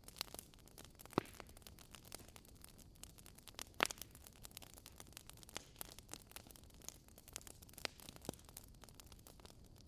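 Wood fire in a fireplace crackling: a faint steady hiss with scattered sharp pops and snaps, two louder ones about a second in and near four seconds in.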